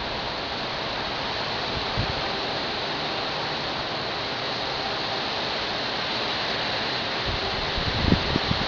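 Heavy rain from a severe thunderstorm pouring down steadily in a constant hiss. Near the end, wind gusts buffet the microphone with low rumbles.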